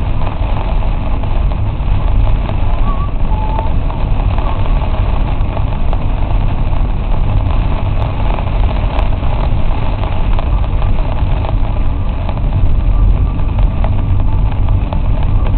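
Vehicle running with a steady low rumble of engine and road noise.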